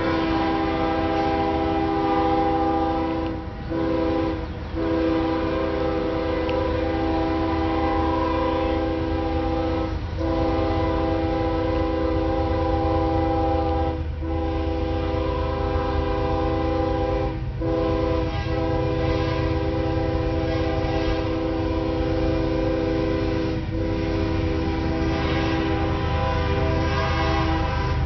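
Freight locomotive's multi-chime air horn sounding long, nearly continuous blasts with a few brief breaks, over the low rumble of the passing train.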